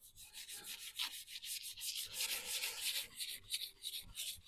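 Hand-sanding the primer on a VW T25 van's body: quick, evenly repeated back-and-forth scratching strokes of an abrasive over the primed panel.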